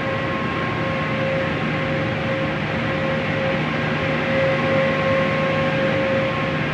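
Conveyor car wash tunnel equipment running: a steady rushing of spray or air with a constant motor hum underneath.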